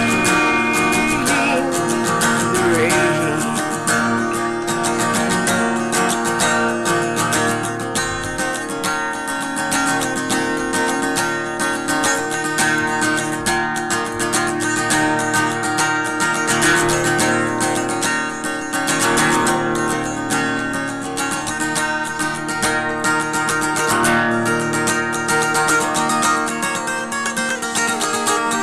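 Acoustic guitar strummed steadily in an instrumental passage of a folk-style song, with no singing.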